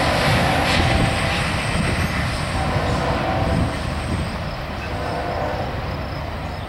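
A train rolling past on the tracks, a steady, dense rumble of wheels on rail that begins to fade a little after halfway through.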